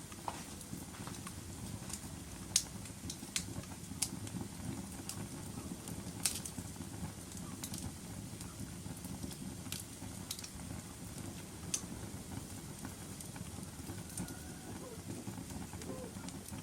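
Wood fire crackling in a fireplace: a steady low rush of burning with sharp pops and snaps scattered through it, the loudest pop about two and a half seconds in.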